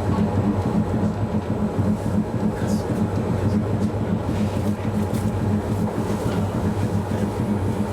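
Hakodate City Tram car No. 530 running along its track: a steady low hum from the motors and the wheels on the rails, with a few faint clicks.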